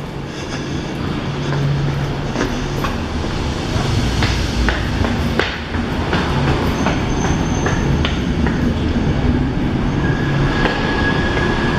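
Passenger train at a station platform: a steady rumble that swells over the first few seconds, with scattered clicks and knocks, and a high steady squeal joining about ten seconds in.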